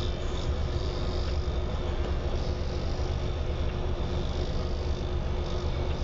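Steady low mechanical hum and rumble, with a faint constant tone above it.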